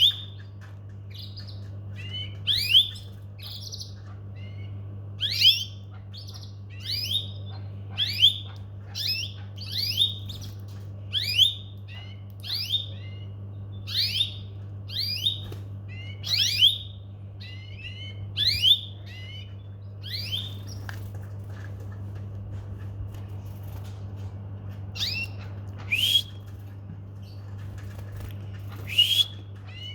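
Domestic canaries giving short, sharp chirping calls over and over, about one a second, with a few seconds' lull about two-thirds of the way through, over a steady low hum.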